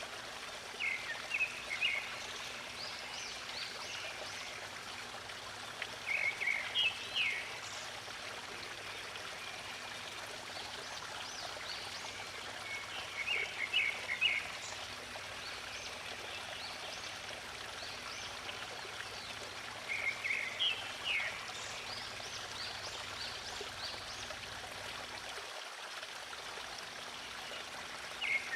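A stream flowing steadily, with a songbird giving short bursts of several quick chirps about every seven seconds.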